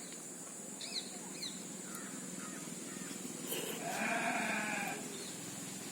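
A single drawn-out animal call, about a second long, starting about four seconds in, after two short high chirps about a second in.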